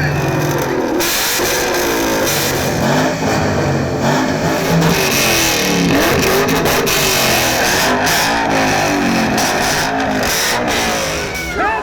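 Ford Mustang engines revving through their exhausts, the pitch climbing and dropping again and again, over background music.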